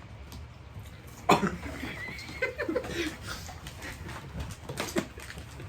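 A person coughs once, loudly and suddenly, about a second in, followed by quieter scattered vocal noises and small clicks.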